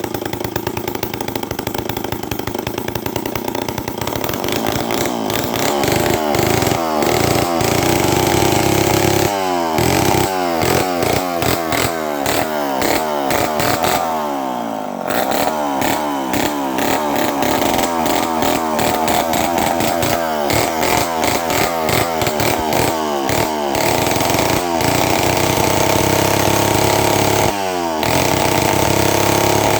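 Homelite 500 direct-drive two-stroke chainsaw running loud with no muffler. It is revved up and down again and again, its pitch sweeping between idle and high speed. This is its first run after a carburetor rebuild, with the high and low needles set 3/4 turn out.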